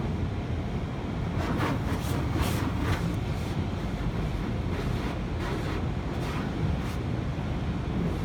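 Automatic car wash running: a steady low rumble with repeated hissing surges of water spray washing over the car, clustered between about one and a half and three seconds in.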